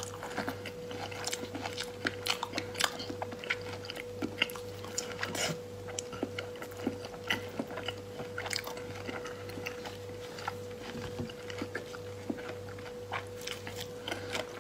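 Close-miked chewing and mouth sounds of someone eating soft, saucy braised pork belly: irregular wet clicks and smacks throughout, over a steady faint electrical hum.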